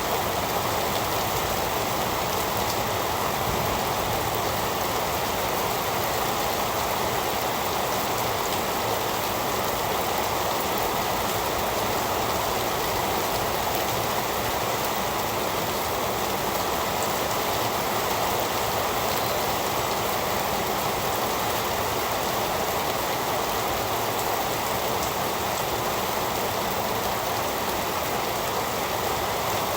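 Heavy rain falling steadily, an even unbroken hiss of rain on surfaces with no thunder or separate drops standing out.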